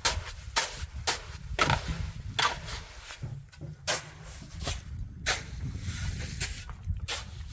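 Irregular sharp knocks from hand tools at building work, about one or two a second and uneven in strength, over a low steady rumble.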